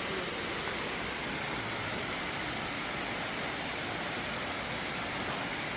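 Water rushing at a waterfall: a steady, even noise with no breaks.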